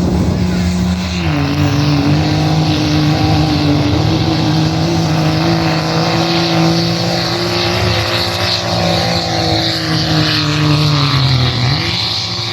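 A pulling vehicle's engine running hard and loud under load down the track, its pitch dropping about a second in, holding, then sagging slowly as the load builds before climbing again near the end as the load comes off.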